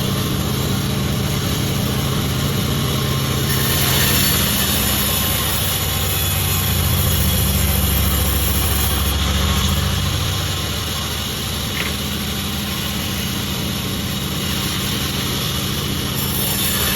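Pandan36 sawmill running steadily with an engine-like low hum. A higher hiss joins from about four seconds in until about nine seconds, and again near the end, typical of the saw cutting through jackfruit wood.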